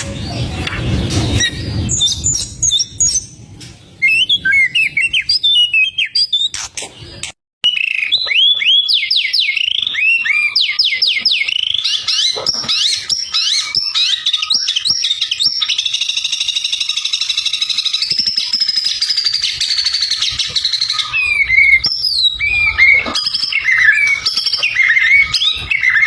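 White-rumped shama (murai batu) singing loudly in varied whistled phrases: fast runs of downward-sweeping notes, a long trill in the middle, then more quick whistles. The song cuts out briefly about seven seconds in, and a low rumble sits under the first couple of seconds.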